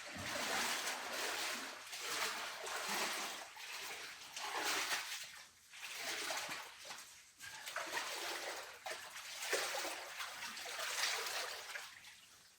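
A person wading through a canyon pool in canyoneering boots, the water splashing and sloshing with each step, about one stride every second and a half.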